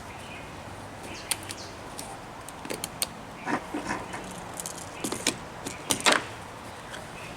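Irregular clicks, taps and light rattles of small hard objects being handled, with the loudest knock about six seconds in.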